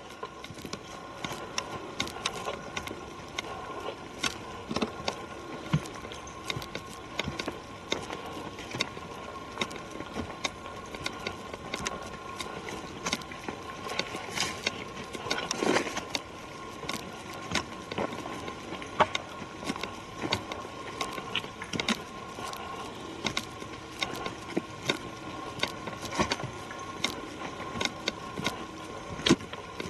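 Footsteps and the small clicks and rustles of someone walking along a forest trail, irregular throughout, with a louder patch of scuffing about halfway through.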